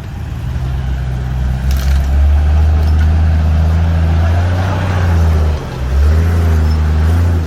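Off-road 4x4's engine running under load at low, steady revs as it is driven over an obstacle, dipping briefly about two-thirds of the way through. A single sharp click about two seconds in.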